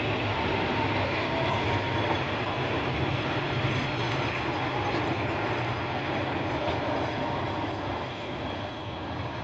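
A train running past on the line, a steady rumble and rail noise that eases a little near the end.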